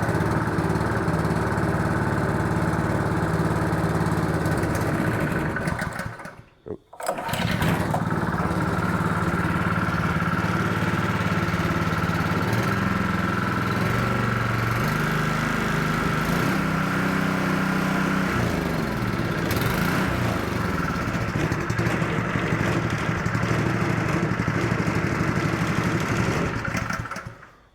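Honda GX200 single-cylinder engine on a 3-inch water pump running. It cuts out about six seconds in, starts again within a second, and runs on with its speed wavering until it stops near the end. The engine will only run on full choke and dies when taken off it, which the owner takes for a fuel delivery problem in the carburetor.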